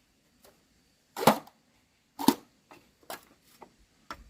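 Two loud, sharp knocks about a second apart, followed by three fainter short taps.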